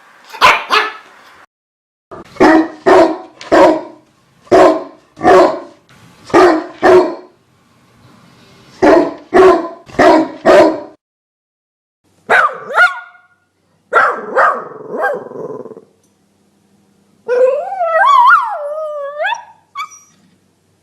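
Dogs barking in quick groups of two or three, sharp and loud, with higher yelps partway through. Near the end comes one long wavering howl that rises and falls in pitch.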